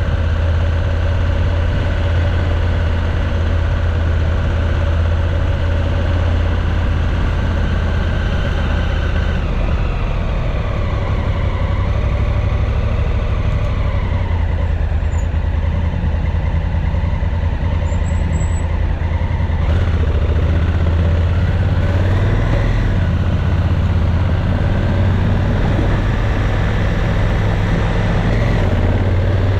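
Motorcycle engine running under way, heard from on the bike with air rush. The engine note drops about a third of the way in and shifts again later.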